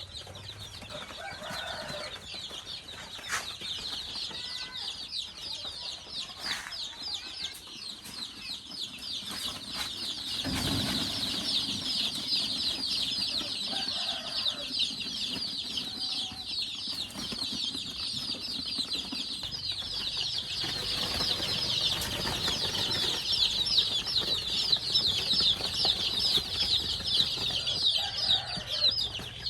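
A flock of chicks peeping without pause, many rapid high-pitched cheeps overlapping, getting louder over the second half, with a few lower clucks now and then and a dull thump about ten seconds in.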